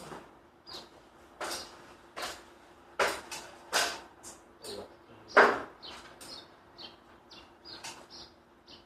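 A string of irregular knocks and clatters, about a dozen, the loudest a little past halfway. Small birds chirp in the background throughout.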